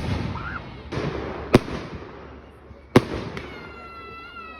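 Fireworks display: two sharp aerial shell bangs, about a second and a half in and again about three seconds in, each followed by a fading rumble. A high steady whistle sounds near the end.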